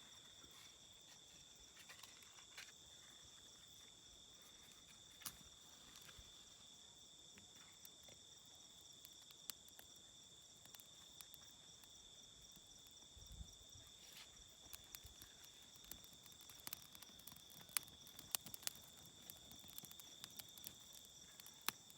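Faint steady chirring of crickets in a rural evening chorus, with scattered sharp clicks and snaps that come more often near the end.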